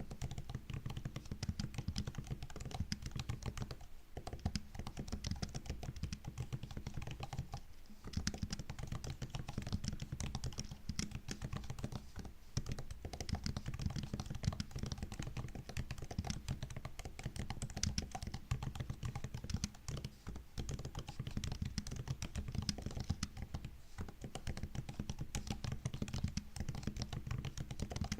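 Continuous typing on a MacBook's built-in laptop keyboard: rapid key clicks, broken by brief pauses every few seconds.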